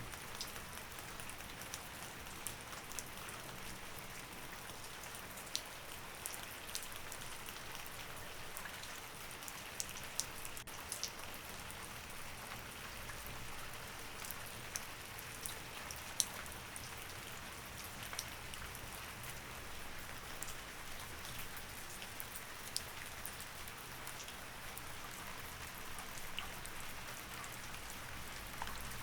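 Steady rain, with scattered sharp ticks through it.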